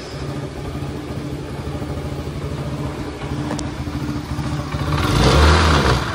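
RS100 scooter engine running steadily, then throttled up about five seconds in to a louder, rougher sound. The mechanic judges the scooter's abnormal riding noise to be a failed bearing in the rear gear case, a common fault of this model.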